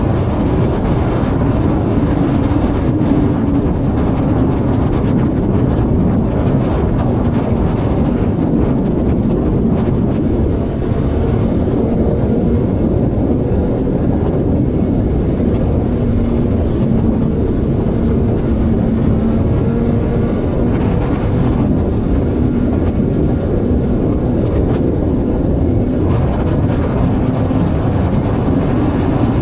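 A vehicle cruising at highway speed: a steady engine note that drifts a little in pitch, under loud, constant road and wind noise.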